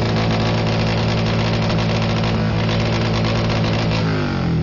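Honda Shadow's V-twin engine revved hard for a sound-level reading. It climbs quickly to high revs, holds steady for about four seconds, then falls back toward idle near the end.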